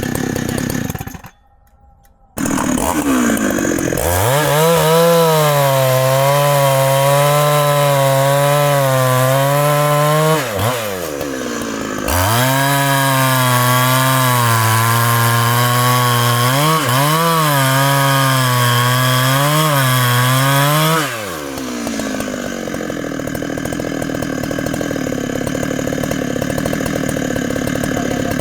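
Large Husqvarna two-stroke chainsaw held at full throttle and cutting wood in two long runs, its pitch wavering and sagging as the chain bites. Between the runs and after them it drops back to a lower running note. There is a brief gap of near silence about a second in.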